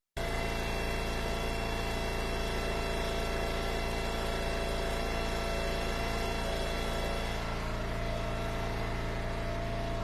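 Eastonmade Ultra wood splitter's gas engine running steadily at idle, after a brief dropout in the sound right at the start.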